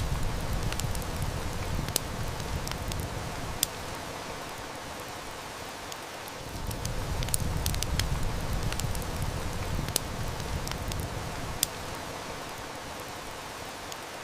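Steady heavy rain hissing, with a wood fire crackling and snapping over it in scattered sharp pops, a few of them louder. A low rumble under the rain swells and fades twice.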